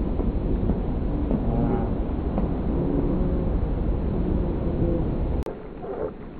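Bird calls played slowed down, so they come out as low, bending, drawn-out calls over a deep steady rumble. About five and a half seconds in, the rumble stops abruptly with a click and fainter calls carry on.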